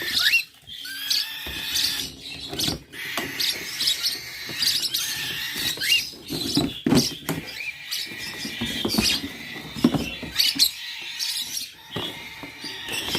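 A group of kept birds chirping and squeaking together: short rising chirps over a busy, high chatter, with scattered clicks and rustles throughout.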